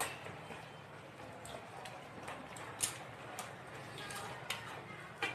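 Faint chewing and mouth sounds of eating water-soaked puffed rice and a raw green chilli, with a few sharp clicks and crunches, the loudest near three seconds in.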